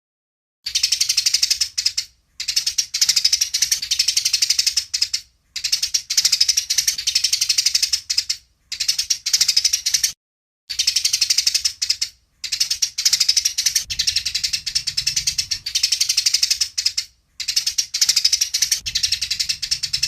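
Eurasian tree sparrows chattering in rapid, harsh chirps, the agitated calls of sparrows fighting. The chatter comes in about seven bursts of one to five seconds, each broken off by a short, dead-silent gap.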